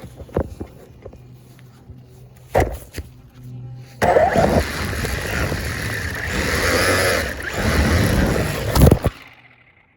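Radio-controlled car: a few knocks, then about five seconds of loud rolling noise from its wheels and motor over hard ground, which stops suddenly near the end.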